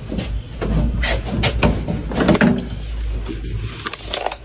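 Irregular clicks and knocks from a metal power distribution cabinet, over a steady low hum. The cabinet feeds a charging electric car and gives off a cricket-like squeak, a sign of the unstable neutral-to-ground voltage and leakage current on the charging circuit.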